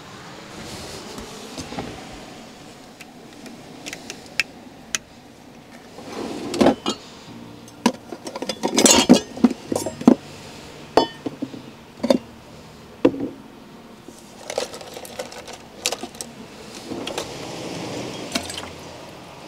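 Cups, cutlery and kitchenware clinking and clattering as coffee is made, in a scattered run of short sharp knocks that is busiest in the middle, over a steady background rush.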